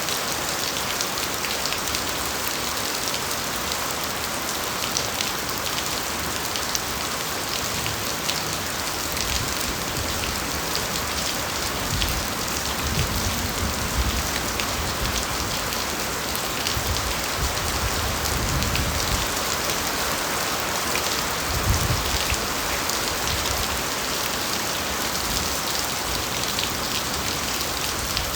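Steady heavy rain falling, a dense hiss dotted with many separate drop hits. A few soft low rumbles swell up in the middle.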